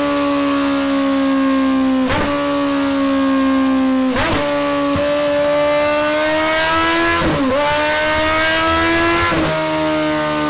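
Kawasaki Z1000SX inline-four engine running at high revs through a Delkevic tri-oval stainless steel slip-on exhaust, with a loud, steady note. The pitch sags slightly and then climbs, broken by about five brief sudden breaks in the note.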